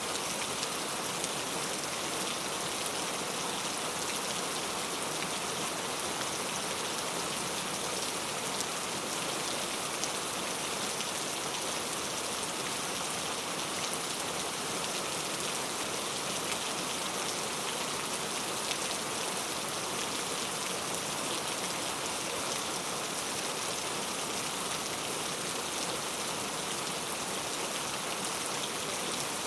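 Heavy rain falling steadily on street surfaces, a dense even hiss with fine patter of drops.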